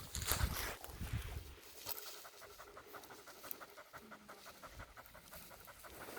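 A spaniel panting rapidly and evenly after a retrieve, with louder low noise in the first second and a half.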